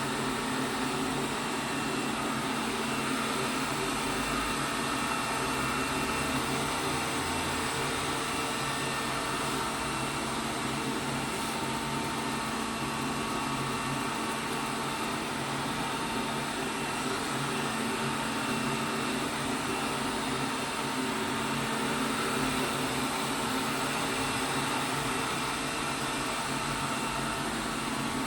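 ELARI SmartBot Lite SBT-002A robot vacuum cleaner running, a steady whirring hum with no break.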